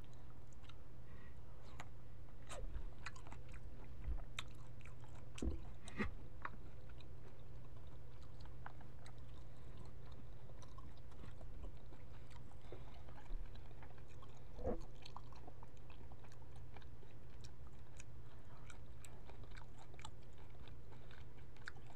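A person chewing cooked jumbo shrimp dipped in cocktail sauce close to the microphone: scattered wet mouth clicks and smacks, most frequent in the first several seconds and then sparse, over a steady low hum.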